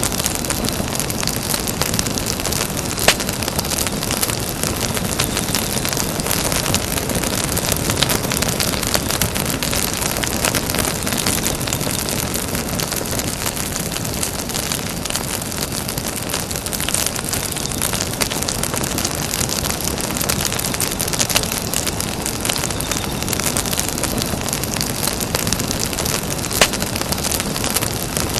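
Campfire burning: a steady hiss and rustle of the flames, full of small crackles, with a few louder pops from the burning wood.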